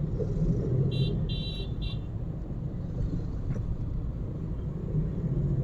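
Steady low rumble of road and engine noise from a car driving. About a second in come three short, high-pitched beeps close together.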